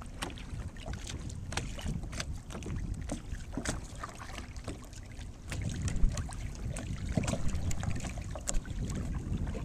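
Kayak paddling: irregular small splashes and drips of water from the paddle and hull, over wind rumbling on the microphone that grows louder about halfway through.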